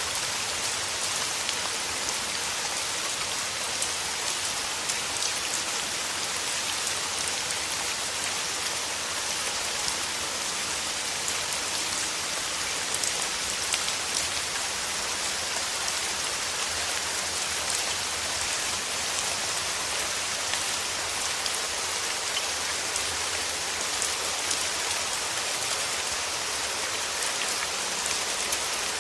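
Steady rain falling, a dense even hiss of raindrops with many faint individual drop ticks.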